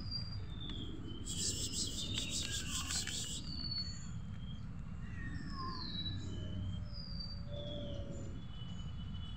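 Birds chirping and whistling, short sliding notes one after another, over a steady low outdoor rumble. About a second in, a harsh, pulsing buzz or rattle cuts in for about two seconds.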